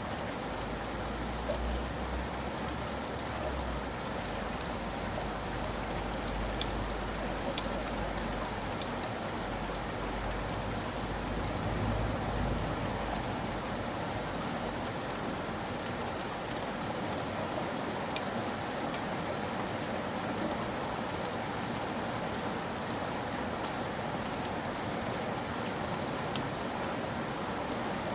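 Steady rain falling, with scattered individual drop ticks over an even wash of noise. A low rumble sits underneath for roughly the first half, then fades.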